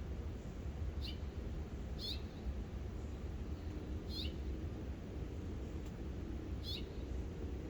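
A bird giving short calls that drop in pitch, four times at uneven gaps, over a steady low rumble.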